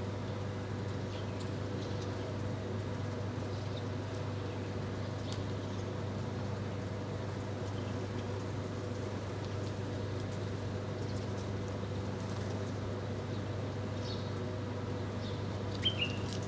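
Small birds chirping sparsely, short scattered chirps with a slightly louder one near the end, over a steady low hum.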